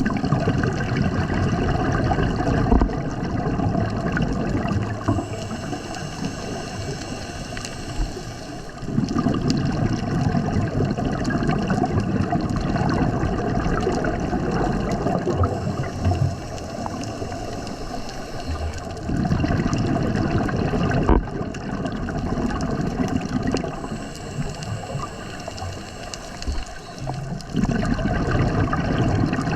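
Underwater bubbling and rushing from scuba breathing: exhaled bubbles from a regulator rumble in long stretches, easing off between breaths.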